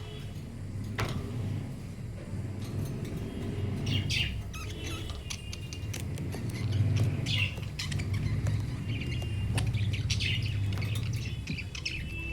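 Pet budgerigars chirping and twittering, many short high calls scattered throughout, over a steady low hum.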